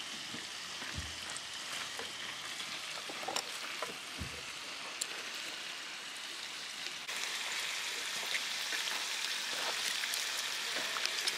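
Meat, sausage and kimchi sizzling on a grill pan over a camp stove: a steady frying hiss, with a few light clicks and knocks. The hiss steps up a little about seven seconds in.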